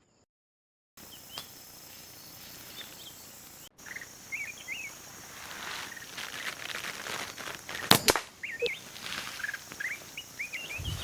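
Small birds giving short, quick chirps again and again over steady outdoor background noise, with one sharp snap about two-thirds of the way through.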